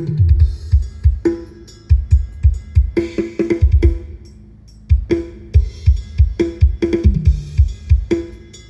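Drum kit of a Thai parade sound truck (rot hae) played through a large PA system: rhythmic kick and snare beats, a brief break about four seconds in, and falling drum fills near the start and again near the end.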